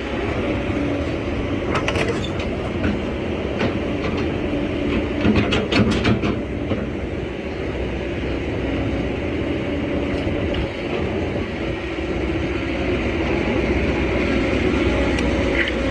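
Heavy construction machine's diesel engine running steadily, with clusters of sharp clanking knocks about two seconds in and again around five to six seconds in.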